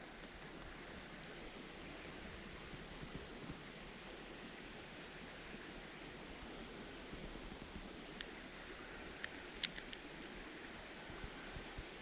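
Steady, high-pitched chorus of crickets, unbroken throughout, with a few faint clicks around eight to ten seconds in.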